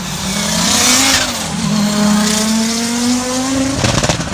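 Rally car engine running hard, its note climbing steadily as the car accelerates, with a burst of hiss about a second in. A rapid crackle follows near the end.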